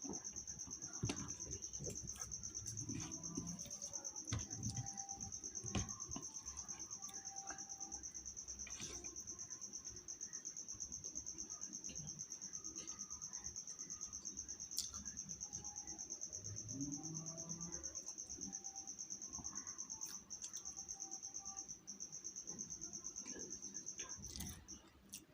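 A cricket trilling in one steady high-pitched note, with scattered small clicks and knocks beneath it; the trill stops about a second before the end.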